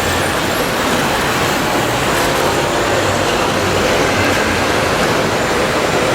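Radio-controlled Komatsu D65PX model bulldozer running steadily, its engine-like drone mixed with track and mechanism noise.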